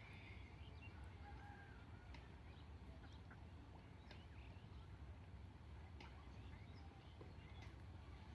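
Faint, scattered short bird chirps over a steady low hum.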